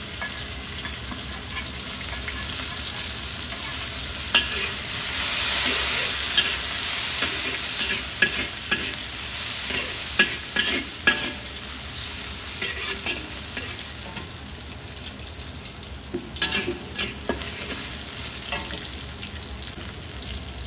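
Sliced onion and chopped garlic sizzling in hot oil in a wok, stirred with a spatula. A steady frying hiss runs throughout, with sharp taps and scrapes of the spatula against the wok, most of them in the middle and a few more near the end.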